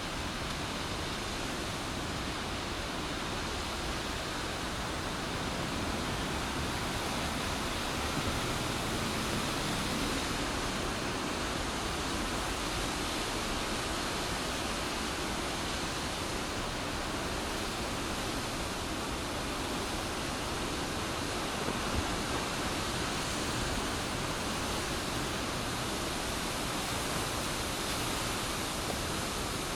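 Steady rushing of high floodwater, an even hiss without pauses, with a single small click about 22 seconds in.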